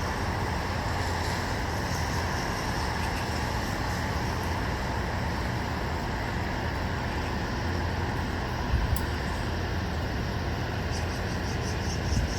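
Steady outdoor hum of distant road traffic, an even, continuous noise. Two brief low bumps come about nine and twelve seconds in, and faint quick high ticks are heard near the end.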